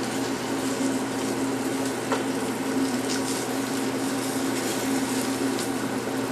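Flour-dredged liver frying in bacon fat and butter: a steady sizzle with a few brief crackles, as the coating sets. A steady low hum runs underneath.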